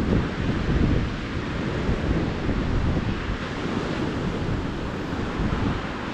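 Calm ocean surf washing steadily onto a beach, with a low rumble of wind buffeting the microphone.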